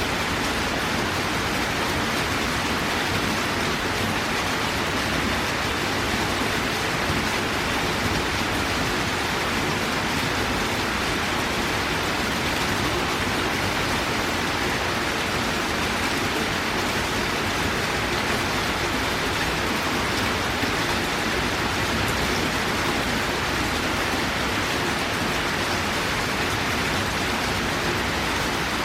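Torrential rain falling steadily: a dense, even hiss without a break.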